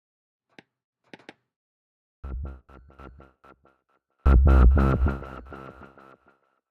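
Synth instrument built from Korg monotron samples in Maschine, played with a delay effect: after a few faint clicks, one note sounds about two seconds in and a louder, bass-heavy note a little after four seconds in, each repeating in quick echoes that fade away.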